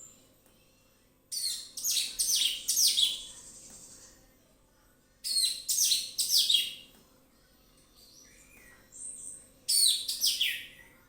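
Orange-headed thrush singing: three phrases a few seconds apart, each a quick run of high, falling notes.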